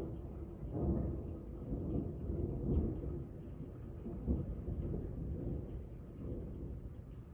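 Thunder rumbling through a thunderstorm, with rain. The low rumble swells and fades several times, loudest about a second, three seconds and four and a half seconds in.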